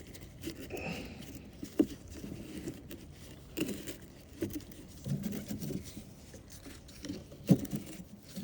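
Irregular knocks, clicks and scraping of things being handled, with a sharp knock about two seconds in and another near the end.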